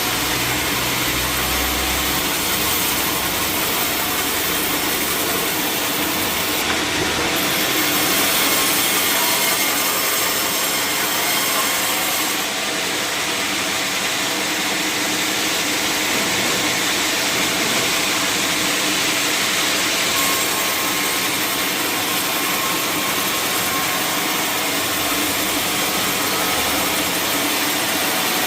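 Sawmill saw cutting through a log, an even, unbroken cutting noise; a low engine hum underneath fades out about two seconds in.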